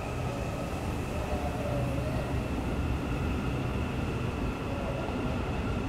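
KTM electric multiple-unit train pulling out of the station, running past with a steady high whine over a low rumble from the wheels on the rails.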